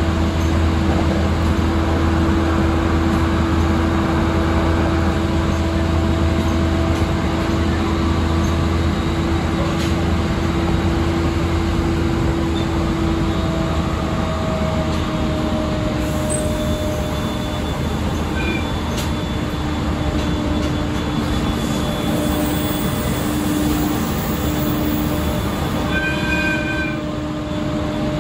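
JR East 701 series electric train running steadily, heard from inside the carriage: a continuous rumble of wheels on rails with a steady humming tone on top, which shifts in pitch briefly about halfway through.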